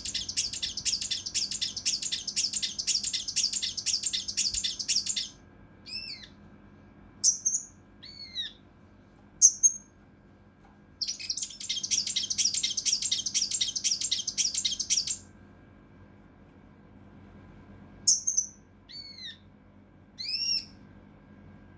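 A kinoi (cucak rante mas) singing its rough, tight rapid-fire 'shot' song: a long, dense, harsh rattling trill of about five seconds, then a few separate short notes that rise and fall, then a second rattling trill of about four seconds, and a few more single notes near the end.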